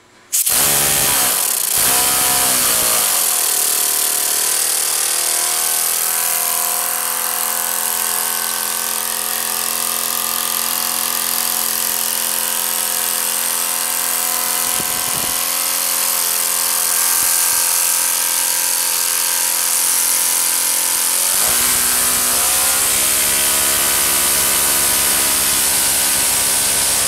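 Homemade compressed-air engine starting abruptly and spinning up over the first few seconds, then running steadily with a loud hiss of exhausting air over a mechanical whine. About 21 seconds in its sound turns lower and heavier.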